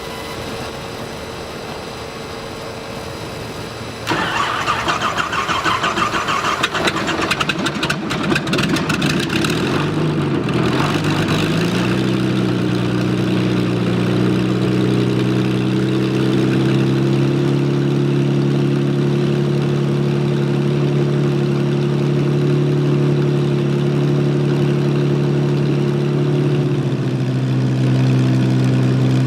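Thunder Mustang's Falconer V12 engine being started. A steady hum is heard first, then about four seconds in the starter cranks loudly and the engine fires roughly. It catches about ten seconds in, runs up in speed and settles into a steady idle.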